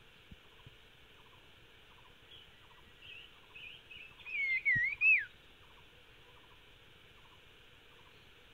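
A songbird calling: a run of short high chirps that builds into a loud, wavering whistled phrase about five seconds in, then stops.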